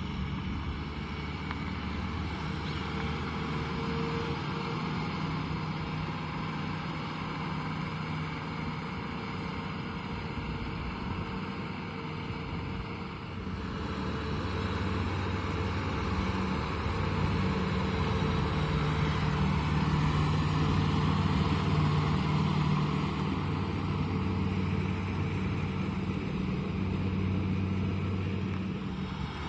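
Kubota M6040SU tractor's diesel engine running steadily as it works in mud. The engine drops back briefly about halfway, then runs louder and harder for several seconds before easing a little near the end.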